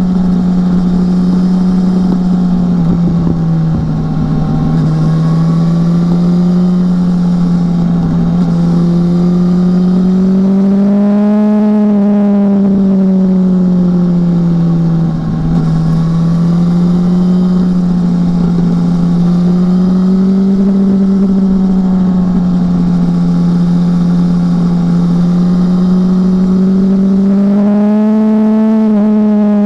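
2018 BMW S1000R's inline-four engine running steadily under way, its pitch rising and falling gently with the throttle, climbing to a higher note about twelve seconds in and again near the end.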